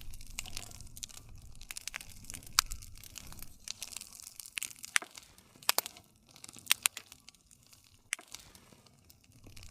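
Wood fire crackling: frequent sharp pops and snaps of burning wood over a low, soft rumble of flame.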